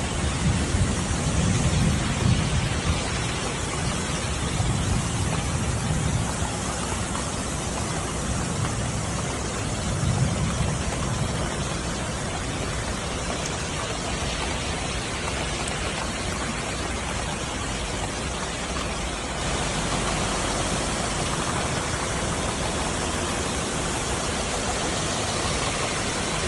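Heavy downpour of torrential rain: a dense, steady hiss, with low rumbles through the first ten seconds or so.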